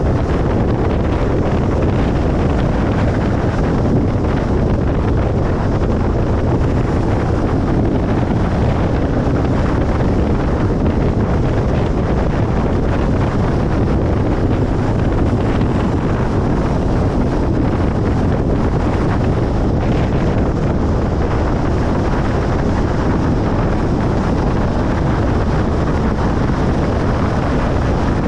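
Steady road noise of a car driving at motorway speed: an even rumble of tyres on the road surface and rushing wind, heavy in the low end and unchanging.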